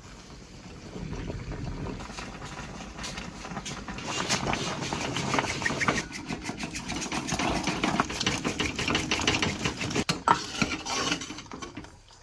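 Motor-driven rice mill running, a dense mechanical clatter and rumble with rapid pulsing, as paddy is husked. It stops abruptly near the end.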